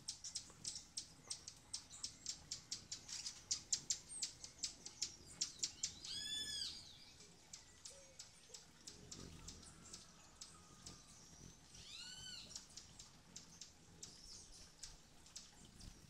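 Birds calling in forest: a fast run of short, high chips, several a second, for the first six seconds or so, then two single arching calls, one about six seconds in and one about twelve seconds in.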